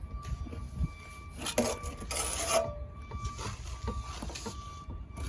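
Trowel scraping and rubbing cement render, in irregular rasping strokes that are loudest about one and a half to two and a half seconds in.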